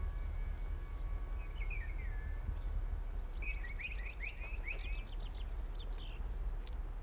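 A songbird sings a few phrases of quick chirps and trills over a steady low outdoor rumble.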